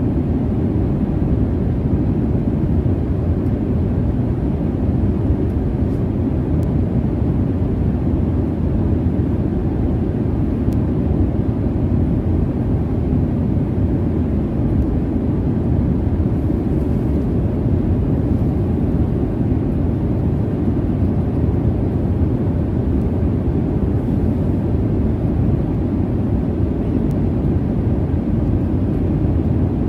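Jet airliner cabin noise: a steady, even, low rumble of the jet engines heard from inside the cabin.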